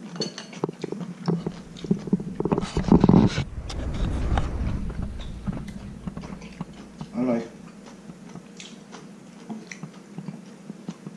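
A person chewing and biting food close to the microphone, with small clicks of chopsticks against a bowl. A louder stretch of noise comes about three seconds in.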